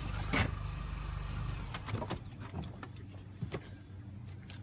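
Low rumble of a car or other road vehicle, fading after about two seconds, with scattered light clicks and knocks.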